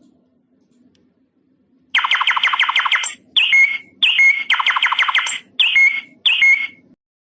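Electronic bird-song doorbell chime from a sound chip: a fast trill of falling chirps, then several shorter chirping phrases with a whistle-like note, starting about two seconds in and stopping shortly before the end.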